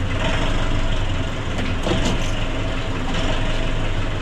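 Nissan NV350 van engine idling steadily, with a few short swells in its sound. The owner's complaint is a rough, hunting idle with low power and heavy fuel knock.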